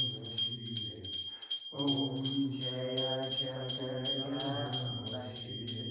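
A small metal bell rung rapidly and evenly, about four strikes a second, over a group of voices singing a devotional chant. The singing stops briefly a little after a second in and then resumes.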